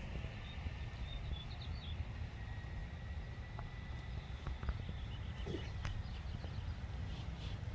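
Outdoor ambience: wind rumbling on the microphone, with a few faint bird chirps and a faint steady high whine that fades out about six seconds in.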